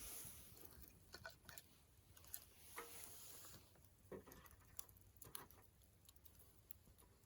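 Wood campfire crackling faintly, with irregular sharp pops and brief soft hissing.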